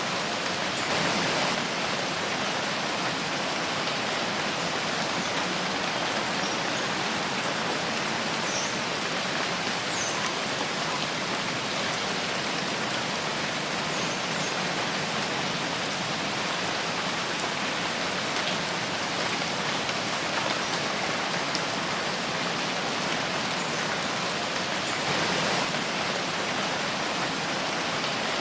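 Steady rain falling in a forest, an even hiss of many drops that swells slightly about a second in and again near the end.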